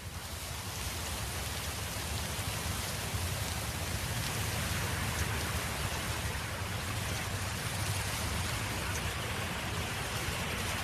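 Steady wind noise: a low rumble under an even hiss, fading in over the first second and then holding level.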